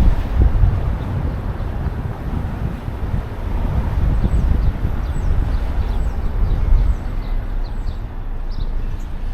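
City street noise: a steady low rumble of traffic mixed with wind buffeting the microphone, easing off about seven seconds in, with short high chirps scattered through the second half.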